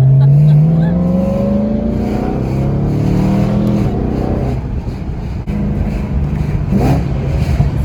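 Car engine accelerating, its pitch climbing for about four seconds, then dropping as it shifts up and running steadily after.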